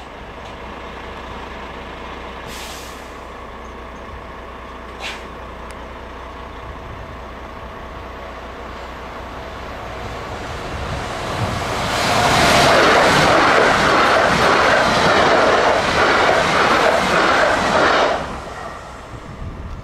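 A passenger train approaches and passes close by. The rumble of its wheels on the rails swells from about ten seconds in, stays loud for about six seconds as the coaches go by, and drops off sharply near the end.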